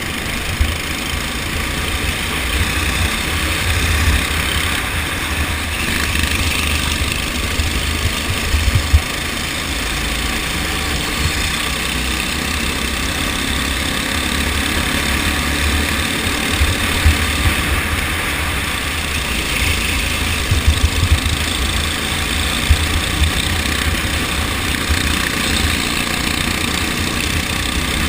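Go-kart engine running steadily during a race.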